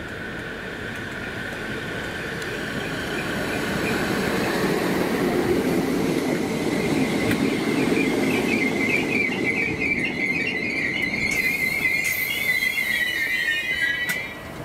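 A Merseyrail Class 507 electric train pulling into the platform and stopping. Its wheels rumble on the rails as the carriages pass, over a high, wavering brake squeal that climbs a little in pitch and cuts off suddenly near the end as the train halts.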